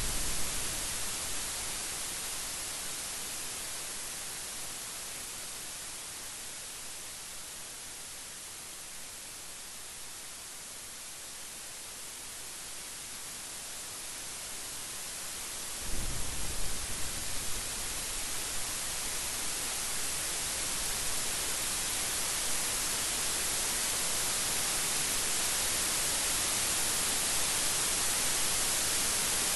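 Steady hiss of heavy rain that eases off and then gradually builds louder again. A thunderclap breaks in about halfway through, with a sharp crack and a low rumble trailing off over a couple of seconds, and the tail of earlier thunder dies away at the very start.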